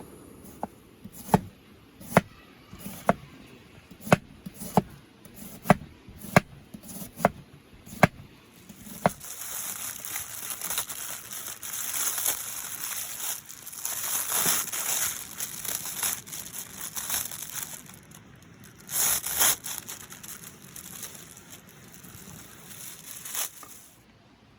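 A kitchen knife chops on a cutting board, about nine sharp cuts roughly a second apart. From about nine seconds in, food sizzles in a hot pan with a steady hiss that grows louder near the end.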